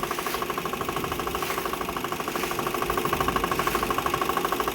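Motorboat engine running steadily, with an even, rapid beat.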